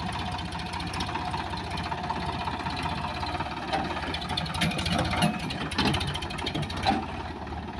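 Heavy diesel engine of a backhoe loader or tractor running steadily with a fast even chug, with several short knocks in the second half.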